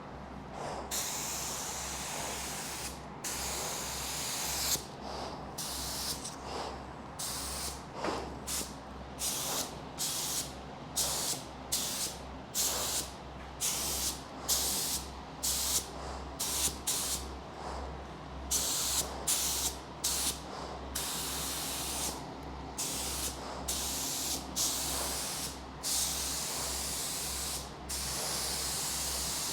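Compressed-air paint spray gun hissing as it sprays epoxy primer onto a truck frame, the trigger pulled in a long series of short passes of about a second each, with longer passes near the start and end.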